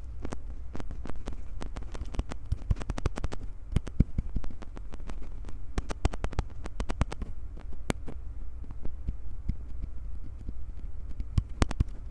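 Hands gripping, squeezing and rubbing right at a Tascam recorder's microphones: quick crackling clicks and taps, dense in two stretches and sparser in between, over a steady low hum.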